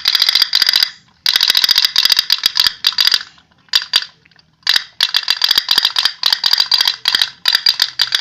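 Tin pop-pop boat toy running, its heated diaphragm giving a rapid metallic 'tek tek tek' ticking. The ticking comes in spurts of about a second, broken by short pauses.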